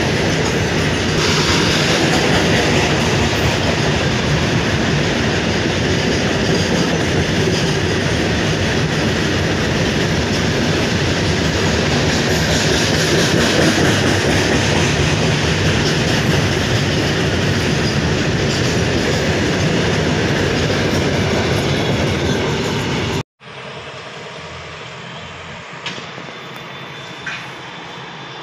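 Goods train of open wagons rolling past close by: a loud, steady rumble of wheels running on the rails. About 23 s in, the sound cuts off abruptly and gives way to a much quieter steady background with a couple of sharp clicks.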